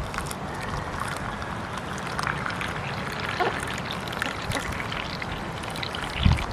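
Rain falling steadily, with many small patters and drips of water.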